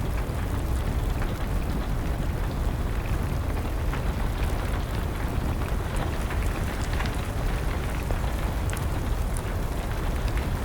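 Steady rain with a low rumble underneath, scattered with the sharp crackles and pops of a burning wood fire.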